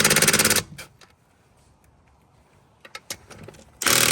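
Cordless impact wrench hammering in two bursts, about a second at the start and again near the end, with a few clicks between. The fastener is not breaking loose.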